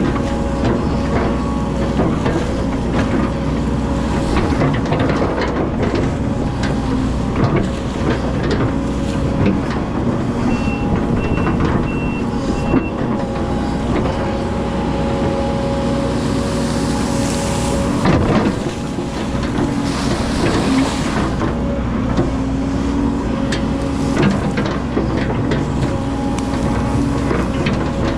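Hydraulic excavator's diesel engine running steadily under load, with knocks and clanks from the machine working. Four short beeps in a row come near the middle, and a hiss rises for a few seconds after that.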